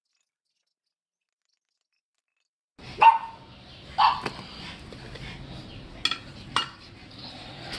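Dead silence for nearly three seconds, then dogs barking: four sharp barks over the next four seconds.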